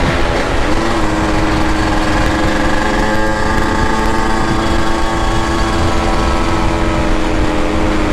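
Yamaha RX-King's single-cylinder two-stroke engine running at steady, low revs while riding slowly, its pitch stepping up slightly under a second in and then holding, with wind rumbling on the microphone.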